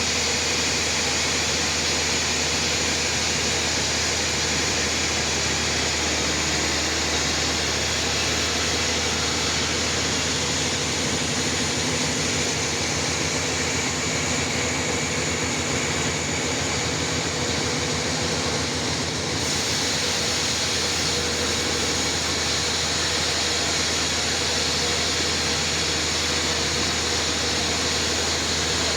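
Homemade band sawmill running steadily, a constant machine noise with a low hum, its tone shifting slightly about twenty seconds in.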